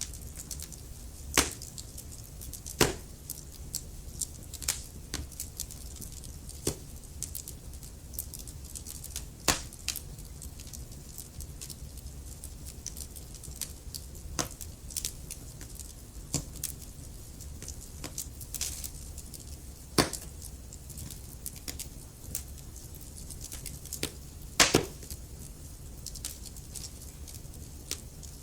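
Wood fire crackling in a fireplace: a low steady rumble of flames with irregular sharp pops and snaps from the burning logs, a few louder pops standing out.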